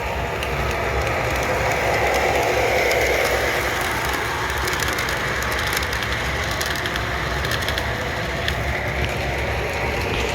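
BNSF model train set running on its layout track: a steady whirring rumble of motor and wheels, with faint clicks from a bump in the track.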